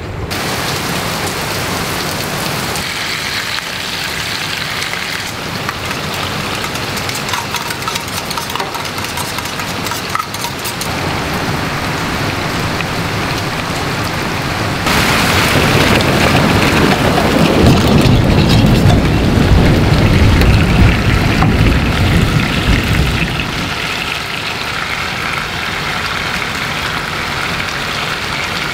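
Whole sea bream and chopped garlic sizzling in oil in a frying pan. The sizzle grows louder and fuller for about eight seconds past the middle, then settles back.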